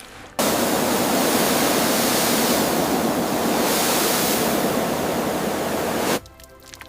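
A jet of water spraying steadily, a loud even rushing hiss that starts suddenly about half a second in and cuts off abruptly near the end.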